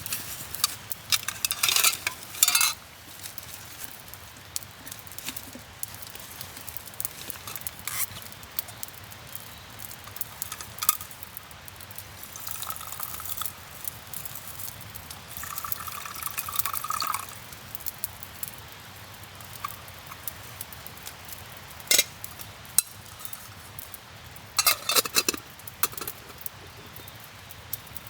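Camp cooking with metal cookware: scattered clinks and scrapes of a utensil against a pot, with stirring and light sizzling.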